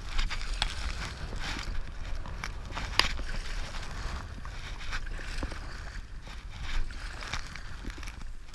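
Water sloshing and splashing around a stand-up paddleboard on a whitewater river, with irregular sharp splashes. Wind rumbles on the microphone, strongest at the start.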